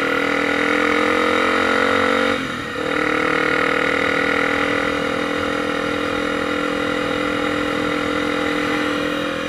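Single-cylinder engine of a Honda XR 250 Tornado motorcycle running under way, heard from on the bike. Its pitch climbs a little, drops out briefly about two and a half seconds in as a gear is changed, then holds steady at cruising speed.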